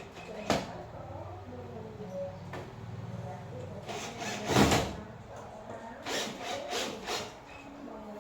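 Hand-work noises from repair work: a sharp knock about half a second in, a longer noisy stroke near the middle, and three or four quick strokes later.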